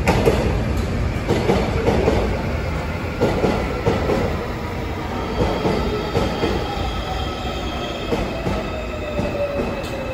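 Korail Line 1 commuter train pulling into the platform. Its wheels knock over the rail joints for the first few seconds, then a whine falls steadily in pitch as the train slows to a stop.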